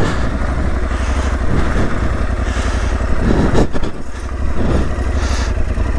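Aprilia Tuareg 660's parallel-twin engine running as the motorcycle rides slowly along a snowy dirt trail, swelling briefly about three and a half seconds in, then easing off.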